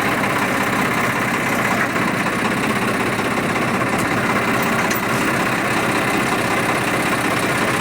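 Swaraj 855 tractor's diesel engine running steadily, with an even pulsing beat.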